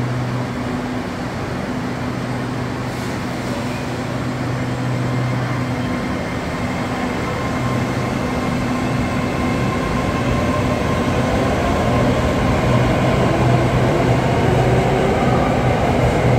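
SRT Red Line electric commuter train pulling out of the station and running past the platform. Under a steady hum, a whine rises in pitch as it gathers speed, and the rumble grows louder toward the end.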